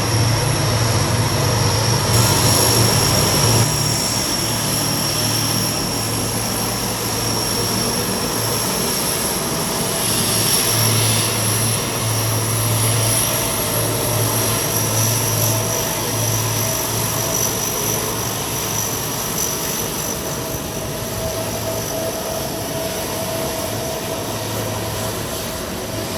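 Aircraft engines running with a steady high whine over a continuous roar, slowly growing fainter.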